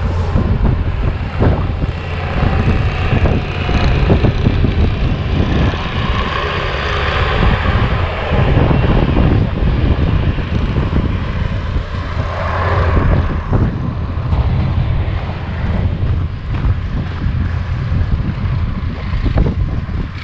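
Bobcat T595 compact track loader's diesel engine running steadily under load, with the whir of its SB200 snowblower attachment. A rushing hiss swells twice, about six and twelve seconds in.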